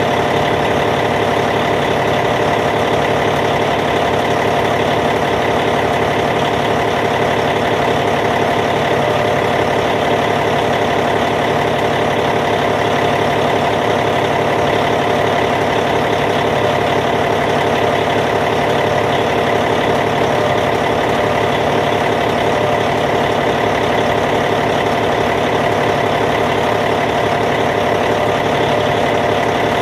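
Caterpillar C15 inline-six diesel engine of a D8T bulldozer idling steadily.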